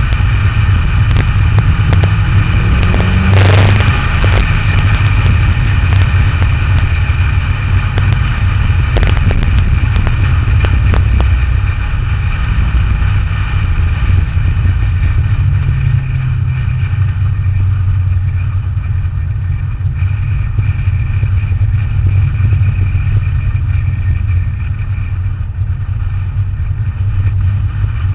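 Sports car's engine running hard along a winding road, heard from the outside of the car with wind and road noise. The engine note rises a couple of times as it accelerates. There is a brief loud rush of noise about three and a half seconds in.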